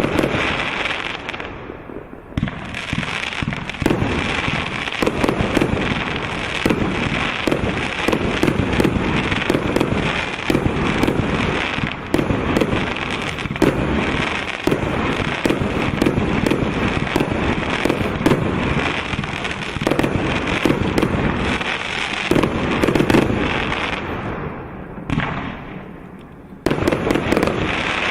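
183-shot PYRAMATIC automatic firework cake firing in rapid succession: a dense run of shots and bursts. It eases off briefly about two seconds in and again near the end, then a fresh volley starts.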